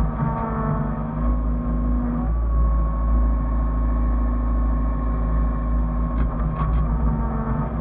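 Hyundai excavator's diesel engine running steadily with a pitched hydraulic whine whose tone dips slightly now and then as the load changes, with a few light clicks a little over six seconds in.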